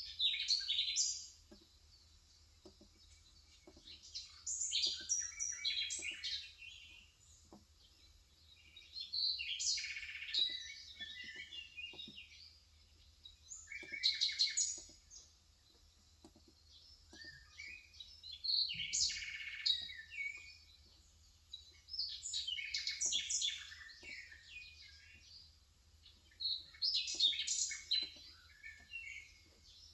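Birds chirping and singing in bursts every few seconds, over soft, steady keystrokes from a Cox Endeavor 35 g electrostatic capacitive (Topre-style) tenkeyless keyboard being typed on.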